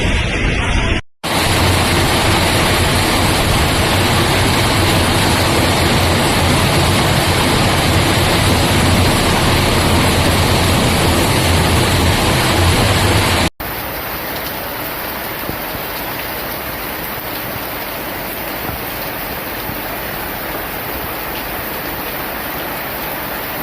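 Steady rushing noise of heavy rain and water. It cuts out briefly about a second in and again about thirteen seconds in, and the last stretch is quieter.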